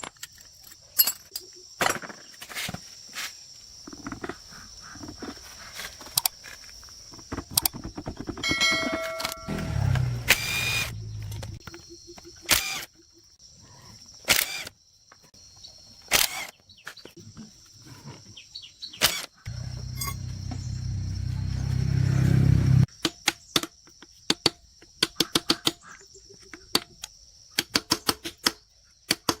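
Many sharp clicks and knocks, some in quick runs near the end, over a steady high-pitched drone. A low rumbling noise swells for about three seconds past the middle, then cuts off suddenly.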